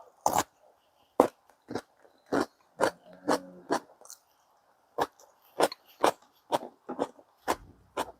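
A person eating close to the microphone: chewing with a run of short, sharp wet mouth smacks about twice a second.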